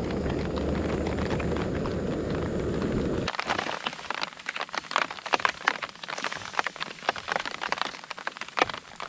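A steady low rumble that cuts off abruptly about three seconds in, followed by dense, irregular crackling and popping.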